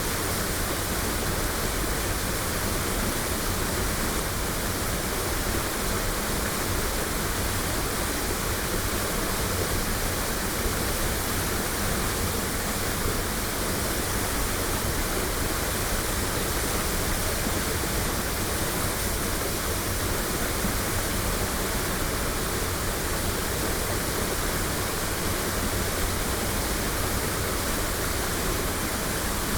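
Waterfall: water falling and splashing in a steady, unbroken rush across high and low pitches, recorded binaurally.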